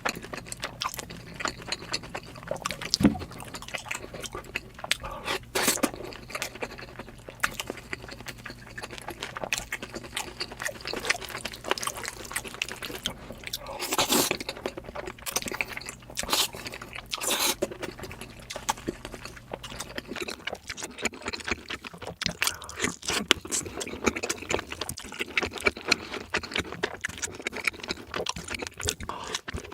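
Close-miked chewing and wet mouth sounds of a person eating, sped up to double speed: dense, irregular smacks and clicks. A faint low hum underneath stops about two-thirds of the way in.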